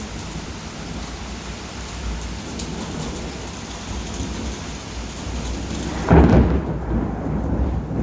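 Steady rain during a thunderstorm, with a loud clap of thunder about six seconds in that rolls on as a low rumble.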